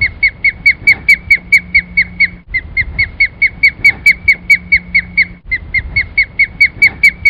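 Osprey calling: a rapid series of short, high whistled notes, each dropping slightly in pitch, about six a second. The notes come in three long runs separated by brief breaks.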